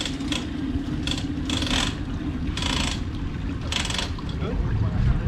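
Hand-cranked boat trailer winch being wound in, its ratchet pawl clicking in short rasps roughly once a second as the boat is pulled up onto the trailer. A low steady hum runs underneath and fades about three seconds in.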